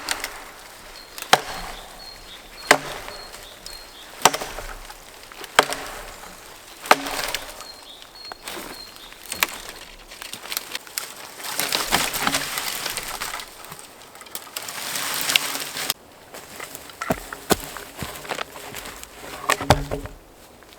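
Wood being chopped with an axe: sharp single blows about every second and a half, with a few seconds of rough rustling noise in the middle.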